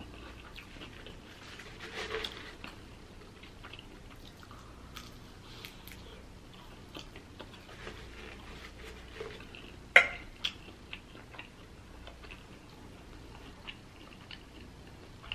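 Close-miked chewing and small wet mouth sounds from eating soft noodles and fried rice, with faint clicks of a metal fork against a plate. There is one sharper tap about ten seconds in.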